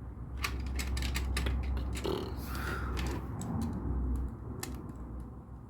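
LEGO bricks clicking and rattling as pieces are handled and pressed together, a string of sharp separate clicks, with a short murmur from a voice about two seconds in.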